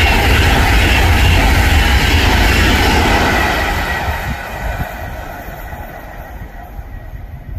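Class 390 Pendolino electric train passing at speed: wheel-on-rail noise and rushing air, loud for the first three seconds or so, then fading steadily as it draws away.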